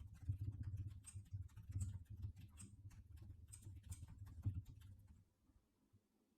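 Irregular computer mouse and keyboard clicks, about a dozen sharp ticks over a low rumble, stopping a second or so before the end, as a trade order is entered.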